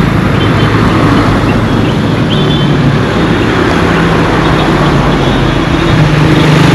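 Road traffic: a motor vehicle's engine running close by over a steady roar of passing traffic.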